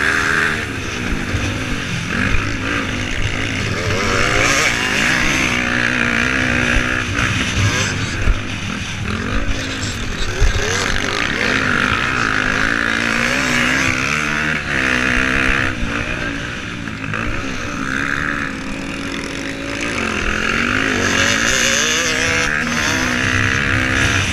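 Motocross bike engines revving up and down repeatedly as the bikes race, with pitch rising and falling through the gears.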